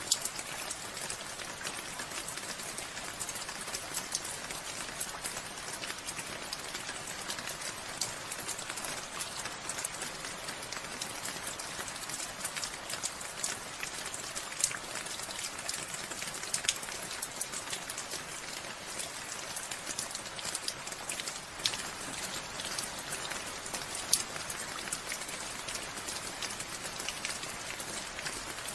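Steady rain falling, with many distinct drops pattering close by on a surface and now and then a louder single drip.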